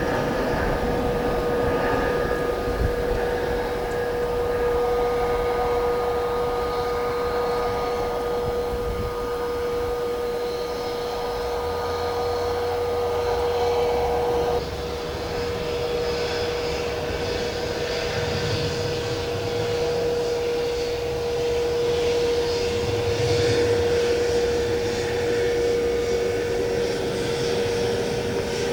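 Jet airliner engines running with a steady whine that holds one pitch, over a broad rush of engine noise. The sound changes abruptly about halfway through.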